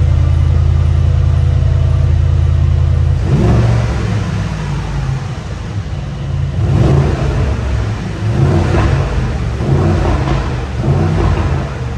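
Mercedes-AMG GLS 63's twin-turbo V8 exhaust: a steady drone for about three seconds, then several revs of the engine, about five, blipped one after another.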